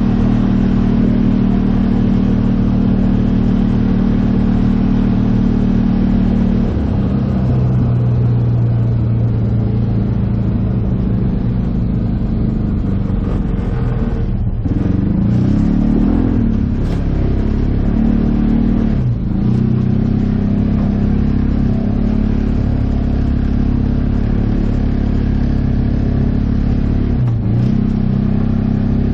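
Polaris Ranger 570 UTV's single-cylinder engine running under way at steady throttle. The engine note shifts about a quarter of the way in and dips and recovers twice near the middle as the throttle is eased off and reapplied.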